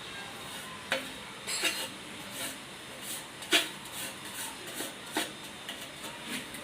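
Irregular clicks, knocks and short scrapes of tools and wood being handled, with a sharp knock about a second in and the loudest one about halfway through.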